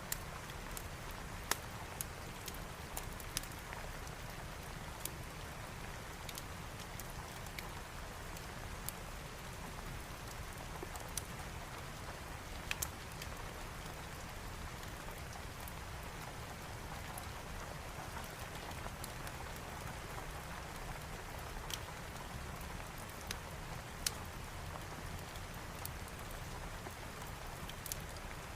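Steady rain falling, with scattered sharp clicks and taps.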